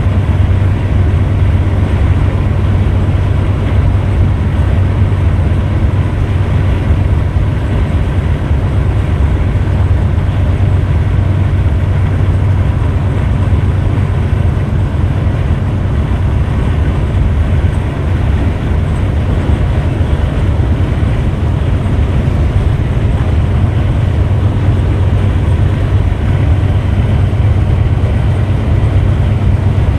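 Steady low drone of a Scania Metrolink multi-axle coach on the move: engine hum and road rumble, constant in level.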